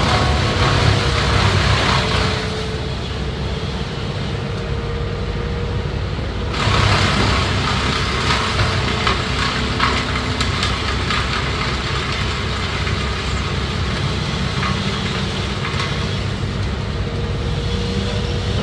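Tree-cutting equipment's engine running steadily, harsher for the first two seconds, quieter for a few seconds, then harsher again from about six and a half seconds in.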